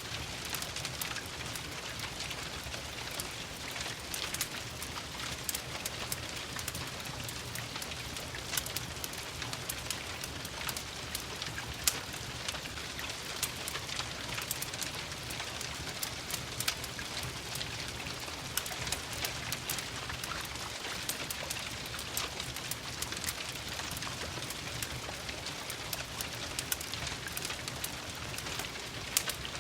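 Steady rain with a dense scatter of small sharp ticks, mixed with a crackling wood fire in a fireplace.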